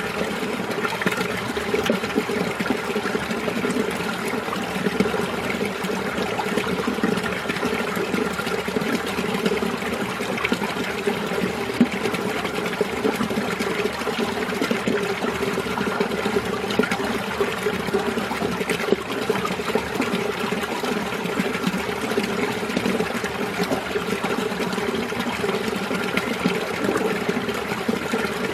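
Winter mountain stream running over rocks: a steady, continuous babble and gurgle of flowing water.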